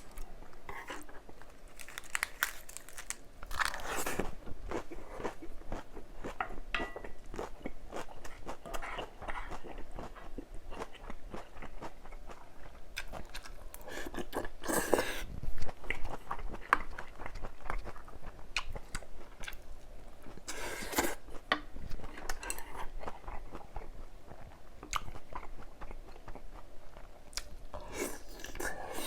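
A person chewing and crunching crisp food in a steady run of short crunches, with a few louder bites scattered through.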